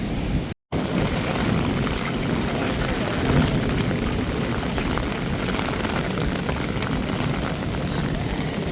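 Steady rain with a continuous low rumble under it, broken by a brief cut to silence about half a second in.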